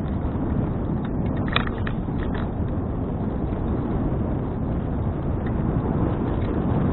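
Wind rushing over the microphone of a bicycle-mounted action camera while riding, a steady low rumble. A few sharp clicks come about a second and a half to two and a half seconds in.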